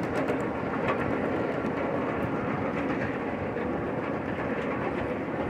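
Passenger train rolling along the track, heard from on board: a steady rumble of wheels on rails, with a few faint clicks near the start.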